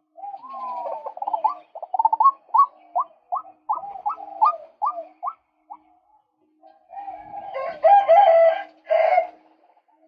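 Male white-breasted waterhen calling: a run of short rising notes, about three a second, then after a pause a louder, harsher burst of calls near the end.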